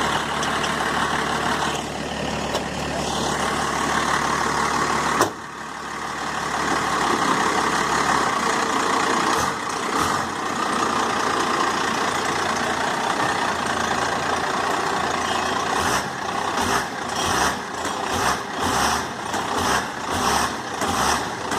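1991 Dodge Ram's Cummins 5.9-litre inline-six turbo diesel running, steady at first. A sharp click about five seconds in, after which the engine sound turns rougher and fuller. From about sixteen seconds it pulses unevenly, a few surges a second, as the truck is made to jump under a pallet of grass.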